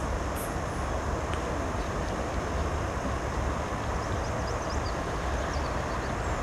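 Steady wind noise with a low rumble and rushing water aboard a wooden sailing boat under way.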